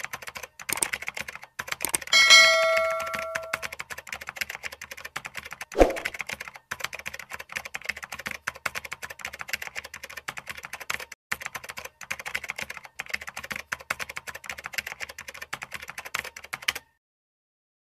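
Typing sound effect: rapid key clicks that run on steadily and stop about a second before the end. A bell-like ding rings and fades about two seconds in, and a single heavier thump comes near six seconds.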